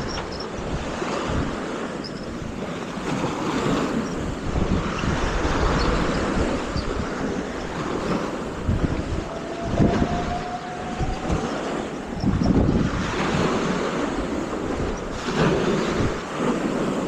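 Wind buffeting the microphone with uneven low rumbles, over a rushing wash of waves on the beach. A faint thin tone rises slightly in pitch about ten seconds in.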